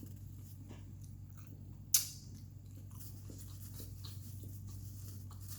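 A person chewing food close to the microphone with small wet mouth clicks, and one sharp click about two seconds in, over a steady low hum.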